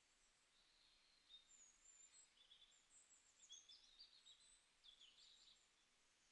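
Faint birdsong: a run of high, quick, varied chirps and short trills starting about a second in and tailing off near the end, over a faint steady hiss.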